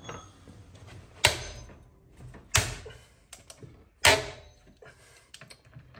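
Three sharp metallic knocks about a second and a half apart, each ringing briefly, with small clicks between: tools at work on seized, overtightened wheel bolts that will not come loose.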